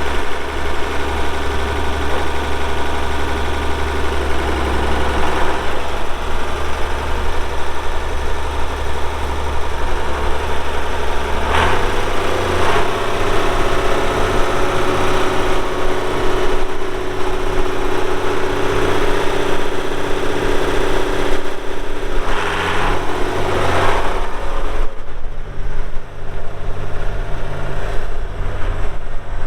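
Diesel engine of a 1967 Oliver 1750 tractor, a six-cylinder, running steadily. Its note changes about a third of the way in and again near the end, as the load or engine speed shifts.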